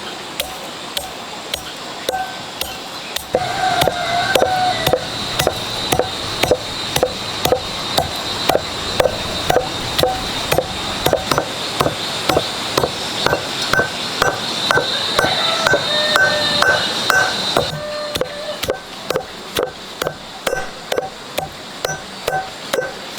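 Toasted salt and pepper being pounded together with a pestle in a mortar: steady strokes about two a second, each strike with a short ring. A steady hiss lies behind most of the strokes.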